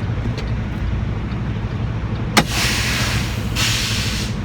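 Semi truck's diesel engine idling steadily. About two and a half seconds in, a sharp pop is followed by a hiss of air lasting about two seconds: the air brake system venting as the parking brakes are set after backing into the dock.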